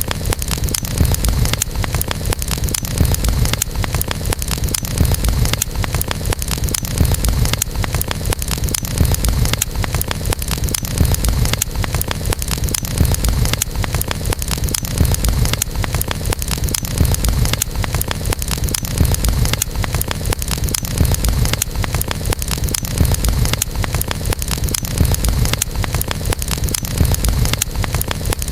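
Wood campfire crackling, dense rapid pops over a steady low rumble of burning.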